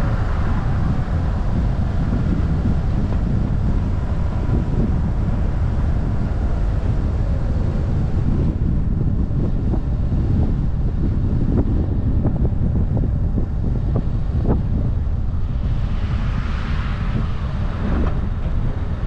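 Wind buffeting a bonnet-mounted action camera on a moving car, over a steady low rumble of road and engine. A faint engine whine fades out in the first second, and a hiss swells and fades near the end.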